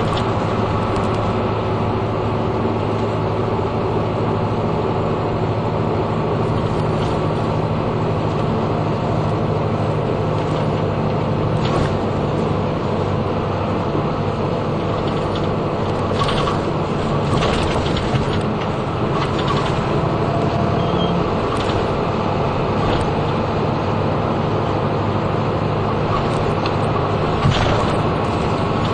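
Route bus cabin sound while driving: a steady diesel engine hum with road noise, and short rattles and clicks from the bus body here and there, with one sharper knock near the end.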